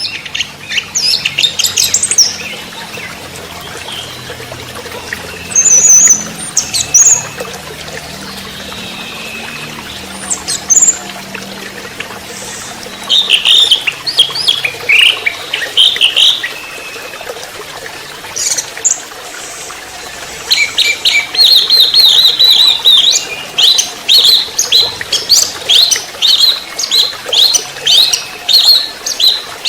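Young orange-headed thrush singing in bursts of high, quick notes, turning into dense, fast repeated phrases from about two-thirds of the way in, over a steady trickle of water.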